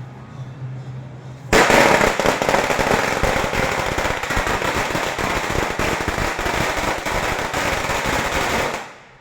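A string of firecrackers going off in a rapid, dense crackle, starting suddenly about a second and a half in and dying away near the end.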